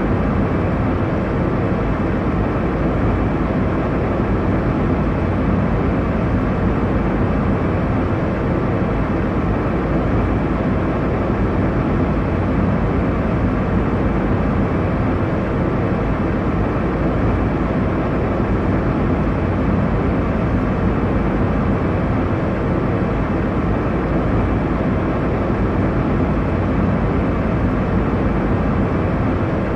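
Airliner cabin noise: the steady, low rushing drone of the jet engines and airflow heard from inside the cabin, unchanging throughout.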